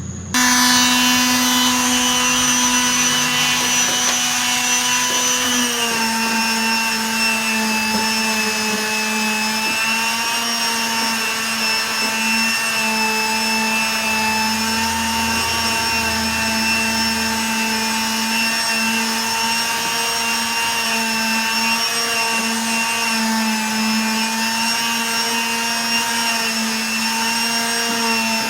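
Electric power tool motor switching on abruptly and running at a steady high speed, its pitch dipping slightly about six seconds in as it takes load and then holding steady.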